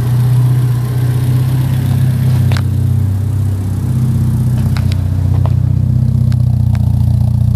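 Porsche 924's four-cylinder engine idling steadily, heard as a loud, even low drone from the engine bay and then at the exhaust. A few sharp clicks sound over it, once about two and a half seconds in and several times near the end.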